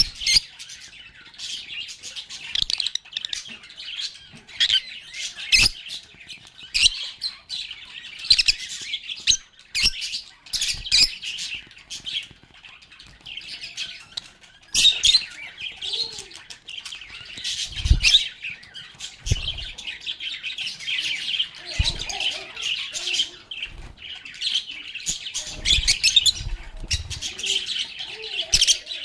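A flock of lovebirds chirping and chattering continuously in quick, high twitters, with a few soft low knocks among them.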